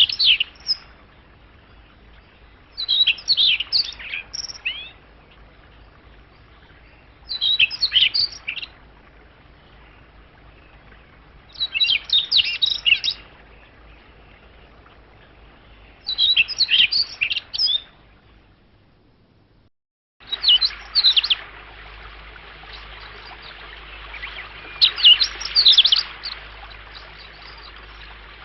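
Wild songbird singing short, quick phrases of high chirping notes about every four seconds. After a brief break about two-thirds of the way through, singing resumes over a louder steady hiss of background.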